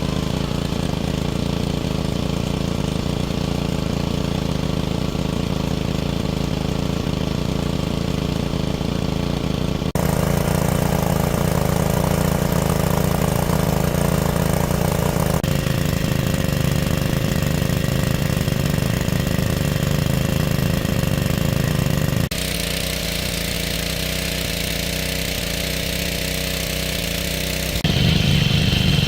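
A small engine running steadily, its sound changing abruptly several times.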